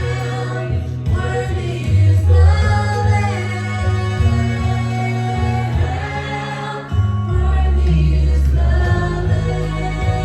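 Congregational worship singing with a band: voices singing together over sustained keyboard and bass chords.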